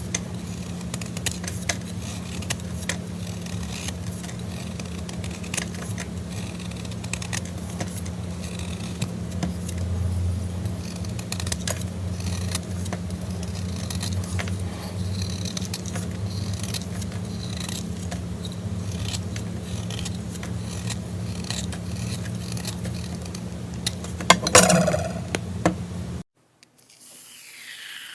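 Slime being handled close to the microphone: many small sticky clicks and crackles over a steady low hum. There is a louder flurry of crackling near the end, and then the sound drops off abruptly.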